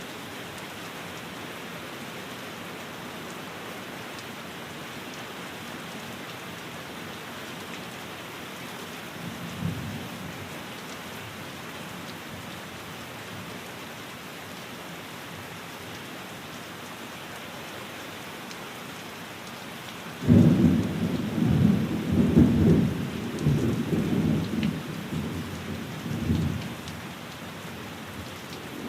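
Steady rain falling, with a faint low rumble of thunder about ten seconds in and then a loud, low roll of thunder that builds and fades over about six seconds, starting about twenty seconds in.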